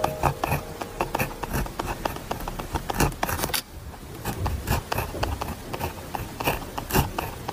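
Pen writing on paper: a quick run of scratchy strokes and small taps, with a brief pause about three and a half seconds in.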